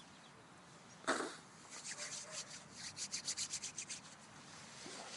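A short sound about a second in, then a quick run of scratchy rubbing or rattling strokes, several a second, for about two seconds.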